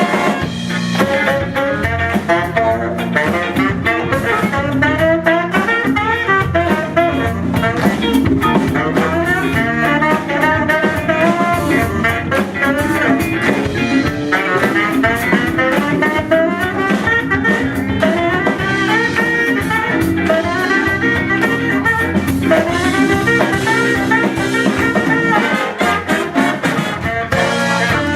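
Instrumental soul-jazz band music: horns playing a busy melody over electric guitar and drum kit.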